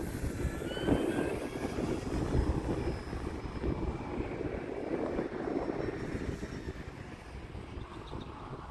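Electric E-flite T-28 RC plane's brushless motor and propeller whining in flight, the pitch gliding briefly about a second in, under a choppy rumble of wind buffeting the microphone.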